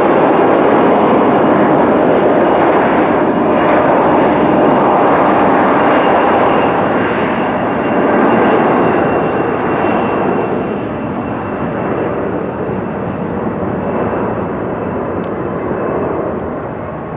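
Jet airliner flying low past on its landing, the engine noise loud with a steady high whine, slowly easing off after about ten seconds.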